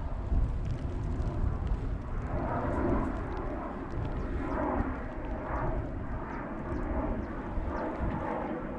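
Wind buffeting the microphone in a steady low rumble, with water swishing and sloshing about once a second.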